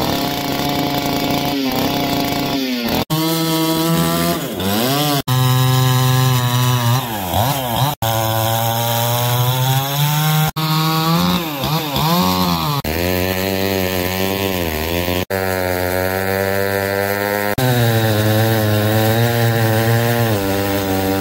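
Two-stroke chainsaw running hard, its pitch rising and dipping, in a string of short clips joined by abrupt cuts every two or three seconds.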